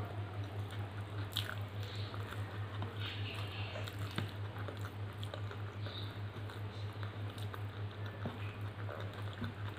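Close-miked wet chewing and mouth sounds of rice and dal, with the squish of fingers mixing rice on a steel plate and a few sharp clicks. A steady low hum runs underneath.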